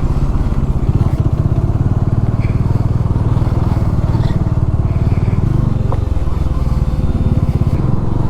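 Motorcycle engine running steadily while riding, with an even, low engine note.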